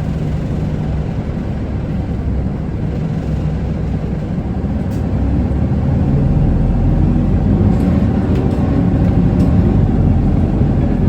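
Isuzu Erga city bus's diesel engine and road noise heard from inside the cabin while under way, steady and growing louder about halfway through, with a few faint clicks.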